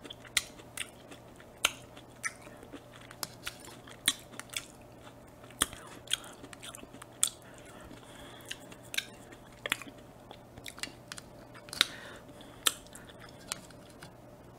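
Close-miked wet chewing and mouth smacking of juicy fruit (pineapple and berries), with irregular sharp clicks about one or two a second.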